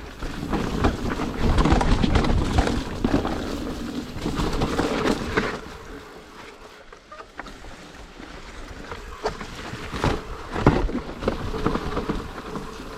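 Mountain bike riding down a wet downhill trail: tyre and frame noise with sharp knocks from bumps and impacts, quieter for a couple of seconds past the middle.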